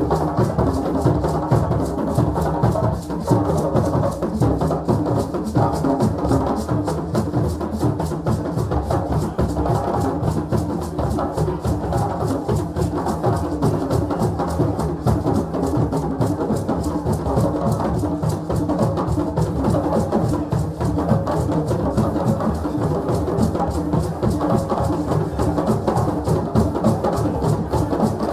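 Drums at a celebration playing a fast, dense, steady rhythm of many rapid strokes, with no break.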